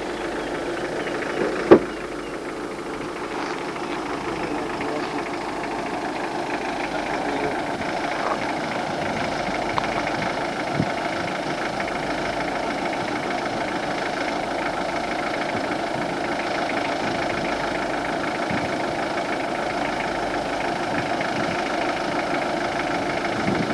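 A vehicle engine idling steadily, with one sharp click just before two seconds in.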